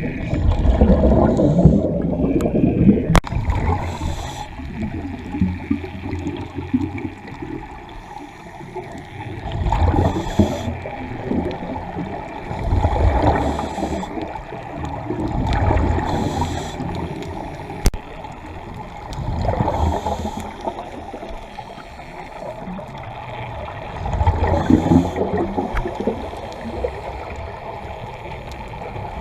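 Scuba diver breathing through a regulator underwater: a bubbling rush on each exhale, recurring about every three seconds, with quieter gurgling in between.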